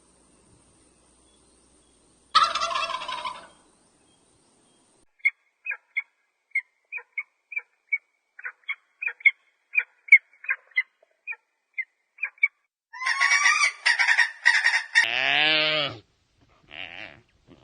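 Turkey gobbling: a rattling gobble, then a run of short clucks at about two a second, then a longer gobble near the end, ending with one drawn-out call that rises and falls.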